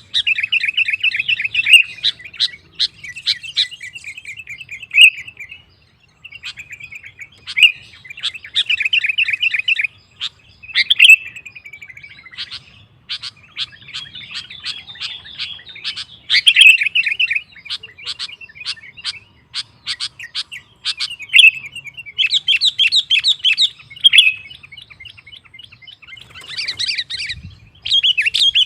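Sooty-headed bulbul singing energetically: rapid, repeated chattering phrases in bursts of a second or two with short pauses between, mixed with sharp chipping notes.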